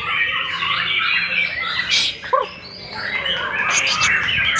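White-rumped shama (murai batu) singing in full voice: a rapid run of varied whistled and warbled phrases, broken by a short pause a little past halfway before it picks up again.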